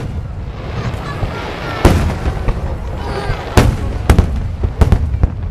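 Aerial fireworks exploding overhead: about five sharp, loud bangs, irregularly spaced, with echoing crackle between them.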